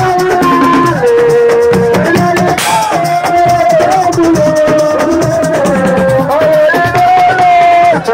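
Assiko band music: fast, steady shaker rattles and drums under a sustained melody line that slides between held notes.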